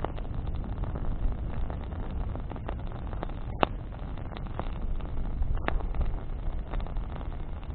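Wood bonfire burning, crackling with scattered sharp pops (two stand out, about three and a half and five and a half seconds in), over a steady low rumble.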